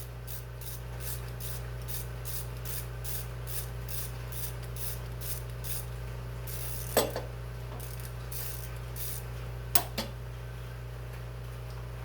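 3/8-inch socket ratchet with an extension clicking about three times a second as it backs out a 10 mm bolt, followed by a couple of sharp metal knocks in the second half. A steady low hum runs underneath.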